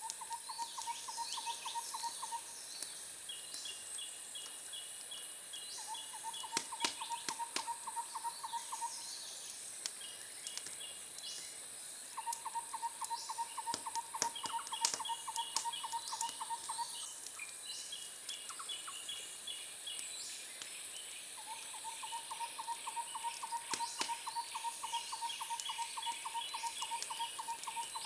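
Outdoor animal chorus. A low trill of rapid, even pulses comes four times, each lasting two to six seconds. Shorter runs of higher chirps come between and over the trills, a steady high insect drone runs throughout, and a few sharp crackling clicks fall in between.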